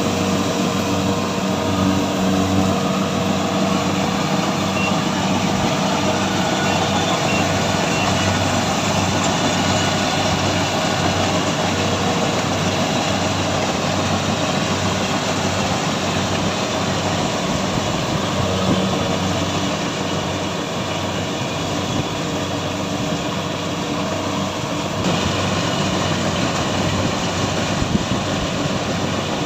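Engine of a heavy farm harvesting machine running steadily, with a regular low throb.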